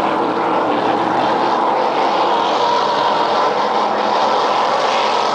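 Race boat engine running hard at high revs in a steady, loud drone, its pitch drifting up slightly about halfway through.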